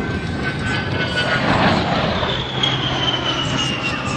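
Jet noise from an A-10 Thunderbolt II's twin TF34 turbofan engines as the jet passes. A roar swells about one and a half seconds in, and a high whine falls steadily in pitch.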